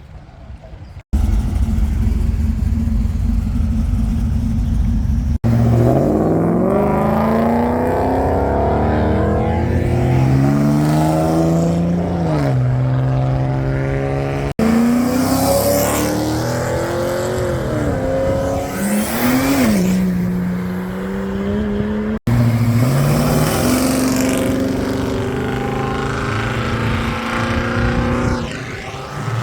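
A run of short clips of muscle car engines, with abrupt cuts between them. First a steady low idle rumble, then engines revving and pulling away, their note climbing in pitch, dropping back and climbing again, with rises and falls of the revs.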